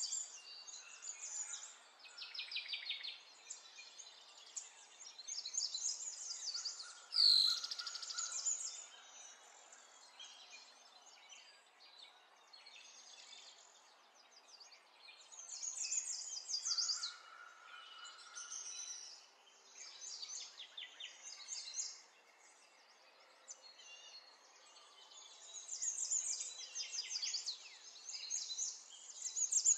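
Birds chirping and singing in repeated bursts of quick high trills, with one louder, sharper sound about seven seconds in.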